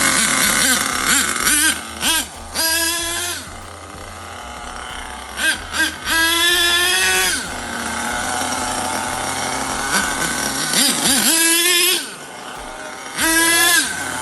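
Small two-stroke nitro engine of an RC car running, revved in several short bursts, its high-pitched note climbing sharply and dropping back between them. It runs again after repair.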